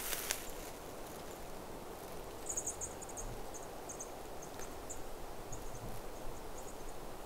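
Quiet outdoor ambience with a faint steady hiss. From about two seconds in, a small bird gives a string of short, very high, thin chirps at uneven intervals. A brief rustle or knock sounds right at the start.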